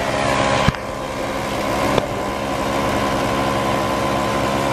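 Small engine running steadily at a constant speed, with a sharp click about two seconds in.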